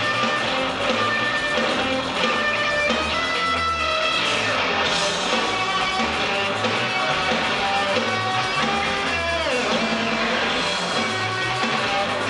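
A live rock band playing, with distorted electric guitar and bass holding sustained notes over a pulsing low end. About nine seconds in, a guitar note slides sharply down in pitch.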